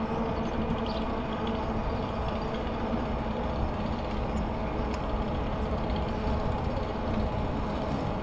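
Steady rolling and rumbling noise of a bicycle ride. A motor vehicle's engine hum is heard alongside it and fades out about two seconds in.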